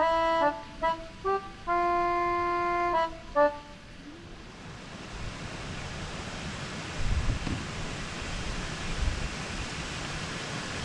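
A short accordion-like music phrase ends about three and a half seconds in, then wind takes over: a steady rushing hiss with low gusts buffeting the microphone, stronger toward the end.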